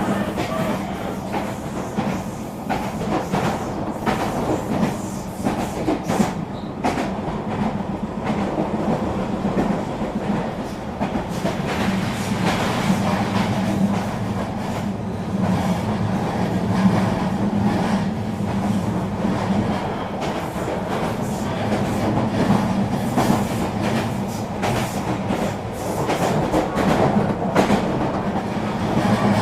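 Eurobahn regional train running along the line: a steady rumble with a hum, and many short clicks of the wheels over rail joints.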